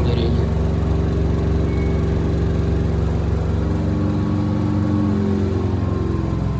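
Samsung front-loading washer-dryer running near the end of its wash program, a steady loud motor hum with a whir. About four seconds in, several of its tones step down in pitch as the drum changes speed.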